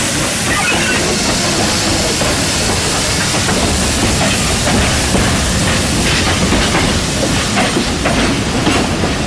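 Steam locomotive releasing steam: a loud, steady hiss.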